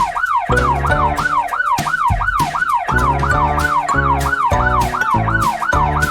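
Police car siren in a fast yelp, its pitch sweeping up and down about three or four times a second, over cheerful background music with a steady beat.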